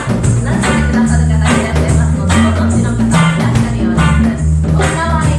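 Live band playing a reggae-style song: a sung melody over a prominent bass line, with a steady percussion beat.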